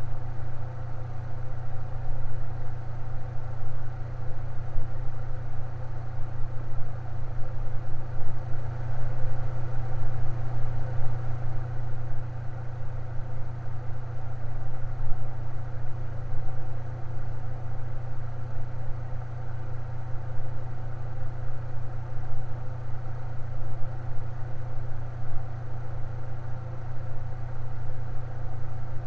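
Electric fan running steadily: a constant low hum with a soft whir of moving air over it.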